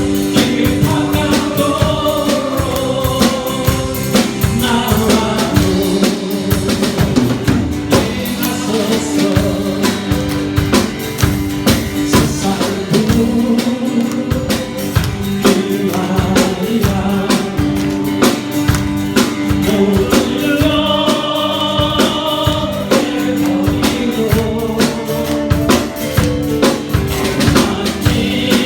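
Congregation and praise band singing a gospel worship song together, with a drum kit keeping a steady beat.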